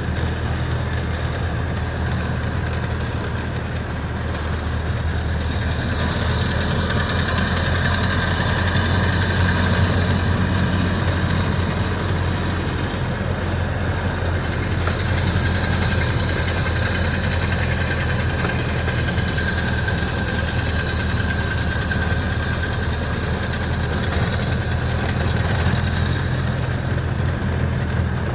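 1929 Ford Model A's four-cylinder flathead engine running steadily in third gear while the car is under way, heard from inside the cabin. Road and wind hiss builds from about six seconds in and falls away near the end.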